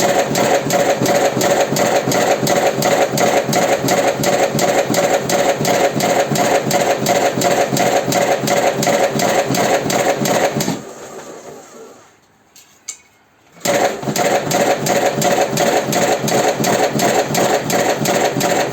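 Electric automatic cigarette tube-filling machine running with a fast, even mechanical clatter of about five strokes a second. It winds down about eleven seconds in and goes nearly silent apart from one faint click, then starts up again abruptly a couple of seconds later.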